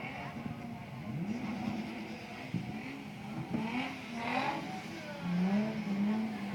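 Drift car engine revving up and down, with a short burst of louder, higher-pitched noise about four seconds in.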